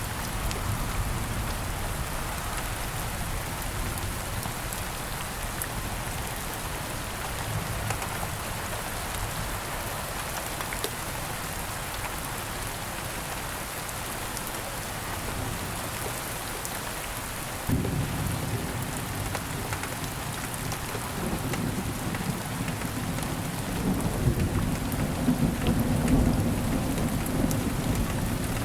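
Steady rain falling throughout. About two-thirds of the way in, a low rumble of thunder starts suddenly and grows louder toward the end.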